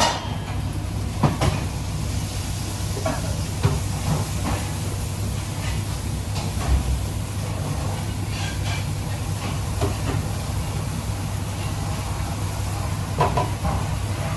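Kitchen cooking sounds: a steady low hum with a hiss over it, broken by a few sharp clicks and knocks of utensils, one near the start and a couple more over the next few seconds.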